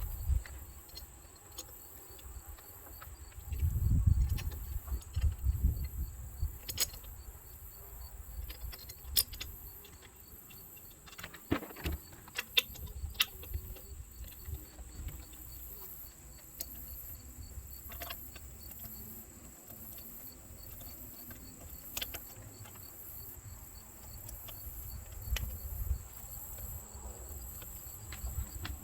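Scattered light clicks and clinks of hand tools and parts being handled, with a spell of low rumbling handling noise about four seconds in, over a steady high-pitched whine.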